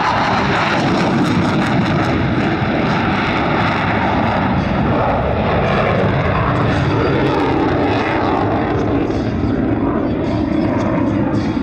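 Military aircraft engines running loud and steady, with no clear rise or fall.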